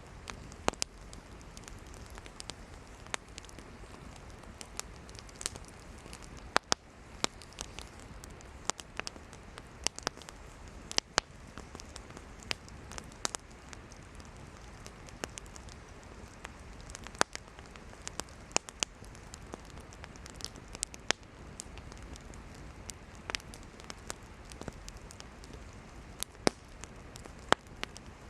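Campfire of burning firewood crackling, with sharp irregular pops and snaps over a steady low hiss of the flames.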